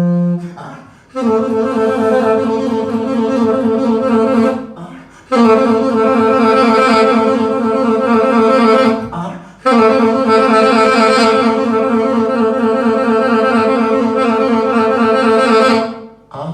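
A solo musical instrument holding three long notes at the same steady pitch, each lasting several seconds, with short breaks between them.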